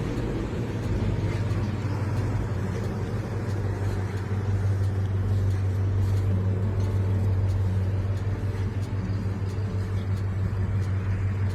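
1956 Plymouth Plaza's 270 V8 engine running at a steady idle, a little louder from about four seconds in.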